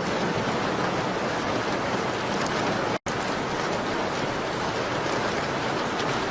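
Steady rain on a window mixed with a crackling fireplace, heard as faint scattered ticks over the even rain noise. The sound cuts out for a split second about three seconds in.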